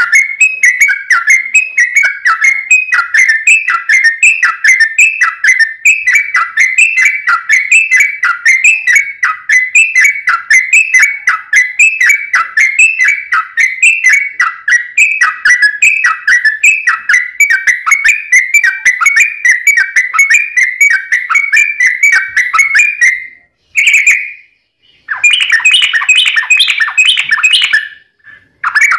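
Yellow-vented bulbul (trucukan) singing a long, fast run of repeated chirping notes, several a second. Near the end the song breaks off briefly, then gives way to a louder, harsher chatter before resuming.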